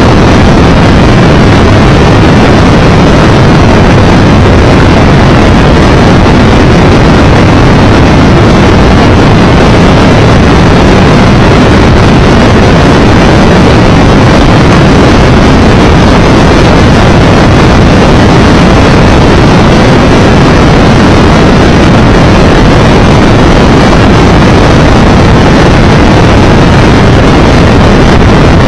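Loud, steady wind and road rush on a Triumph Tiger Explorer 1200 motorcycle riding at speed, the wind buffeting the microphone without a break.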